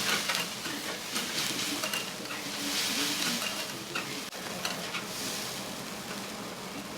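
Food sizzling on an iron teppan griddle, the hiss swelling now and then. Metal spatulas scrape and clack against the iron as the food is turned and chopped.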